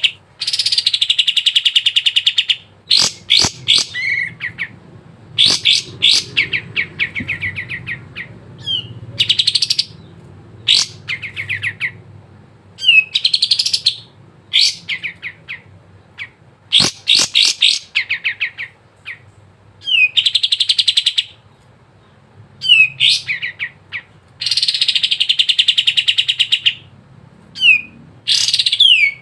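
A kapas tembak bulbul singing a steady run of phrases with short gaps. The phrases mix rapid buzzy chattering trills with quick falling whistled notes.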